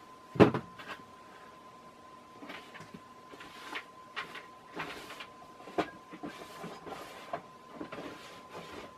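Casablanca Lady Delta ceiling fan running, a steady high whine under irregular clicks and knocks, with one sharp loud click about half a second in.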